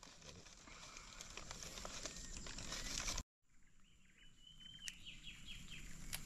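Faint outdoor ambience. In the second half a bird calls, one held high note followed by a quick run of short notes. A single sharp click comes as a lighter is struck at a fire-starter cube under kindling.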